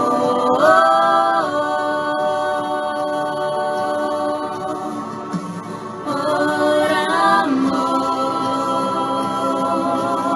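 Christian worship song: singing voices holding long notes, with a step up in pitch about half a second in and a pitch shift again around six to seven seconds in.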